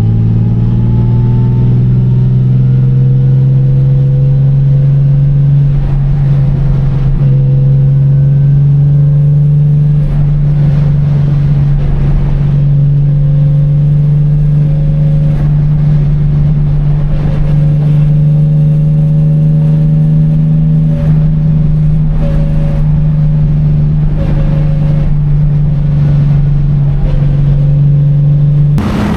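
Car engine running steadily at low, constant revs while the car cruises slowly, a loud low drone heard from inside the cabin; the pitch creeps up a little at first, then holds.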